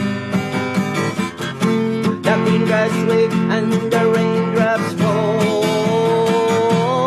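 Acoustic guitar strumming chords, with long held melody notes that waver slightly over them.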